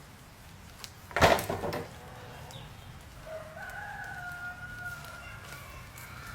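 A rooster crowing, one long drawn-out call in the second half. Just after a second in, a loud, short knock or thump that is the loudest sound.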